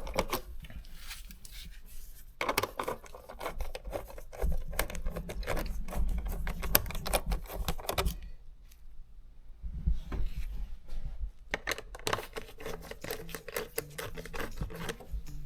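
Socket ratchet clicking rapidly in two runs while loosening a hose clamp on an engine's intake duct, with a pause of about three seconds between them.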